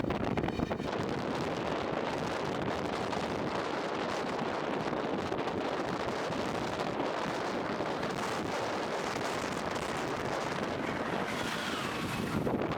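Amtrak train passing at speed: a steady rushing roar of wheels on rail, mixed with wind on the microphone.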